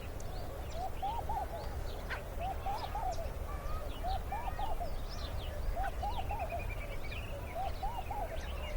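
Birds calling in a forest chorus. Short, rounded low calls come in clusters of two to four, repeating every second or so, over scattered higher chirps and a quick run of notes about two thirds of the way through.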